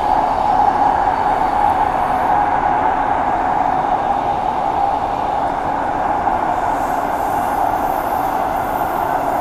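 Cabin interior of a Transperth A-series electric multiple unit train under way: the steady running noise of wheels on rails, with a constant high-pitched tone over it.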